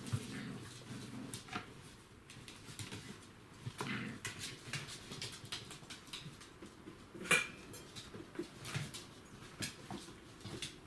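Five-week-old border collie puppies moving about, with scattered small clicks and taps and a few short squeaks; the loudest is a sharp squeak about seven seconds in.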